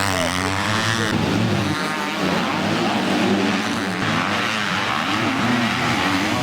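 Motocross motorcycle engines revving on a race track, the pitch rising and falling as the throttle opens and closes, with an abrupt change in the sound about a second in.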